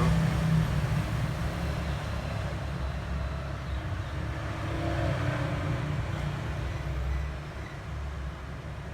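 Steady low background rumble without distinct events, easing off a little near the end.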